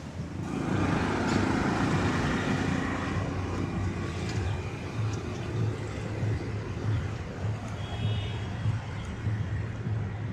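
Road traffic: motor vehicle engines running and passing, with a steady low engine hum and a brief high tone about eight seconds in.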